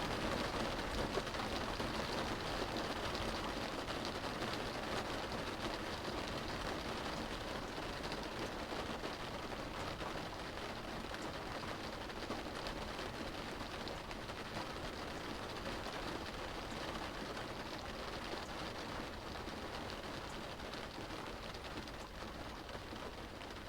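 Steady rain falling on a car's roof and windows, heard from inside the cabin as a dense, even patter that eases off slightly over the stretch.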